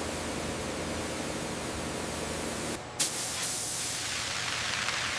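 Steady hiss of a pressurised spray, as from cleaning scorch marks off the airframe. It cuts out for a moment just under three seconds in, then starts again with a sharp onset and a brighter, stronger hiss.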